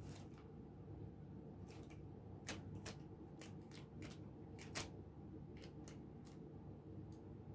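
Plastic bag crinkling in short, irregular crackles as a kitten paws and pounces at it, over a faint low hum.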